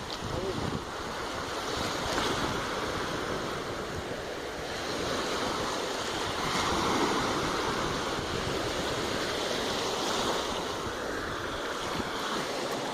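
Gulf of Mexico surf breaking on a sandy beach: a steady rush of waves that swells and eases several times, with wind buffeting the microphone.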